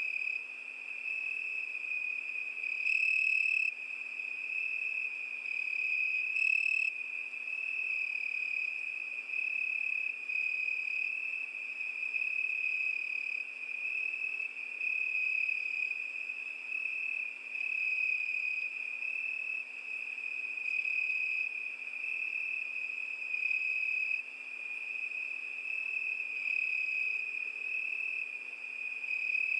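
Crickets chirping in a continuous high trill that swells and fades every second or two.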